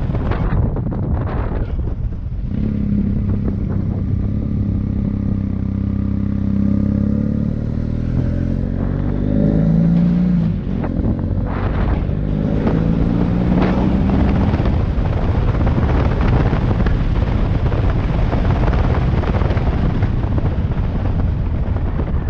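Motorcycle engine running under way, its pitch rising and falling with the throttle through the middle, then mostly a steady rushing noise of riding.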